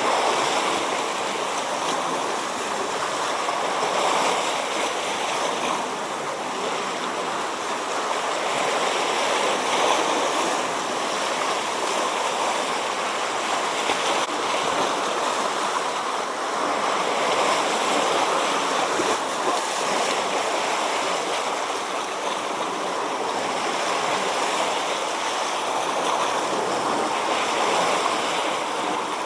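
Ocean waves breaking and washing in, a steady rush of surf that swells and eases every several seconds.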